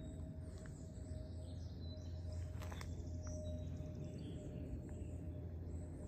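Forest birds chirping and calling in short, scattered notes over a steady low rumble, with a single sharp click about two and a half seconds in.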